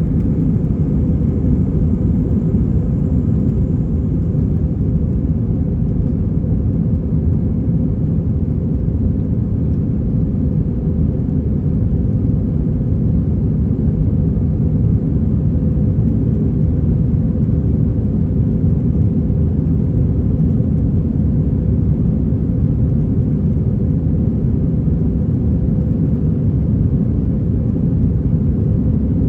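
Airbus A321-231 cabin noise from a window seat: a steady, low rumble of the IAE V2500 turbofan engines and the airflow, unchanging throughout.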